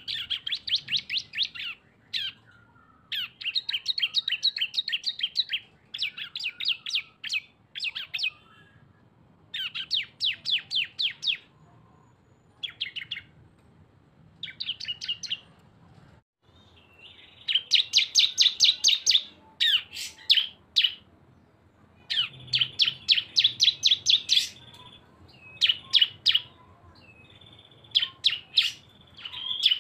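Cisem, a ciblek-type songbird, singing fast rattling 'ngebren' bursts. Each burst is a run of rapid chirps lasting a second or two, with short pauses between bursts, and two birds' songs are combined.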